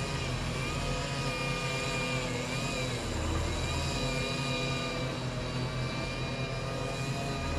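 Engine of heavy machinery running steadily with a low hum, and a thin high whine above it that wavers in pitch.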